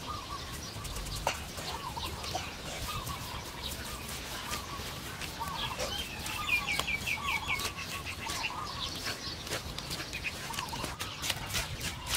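Birds calling: repeated short wavering calls, with a fast high trill about halfway through. Over them are short scratchy crunches of bare hands working dry, crumbly soil, growing more frequent near the end.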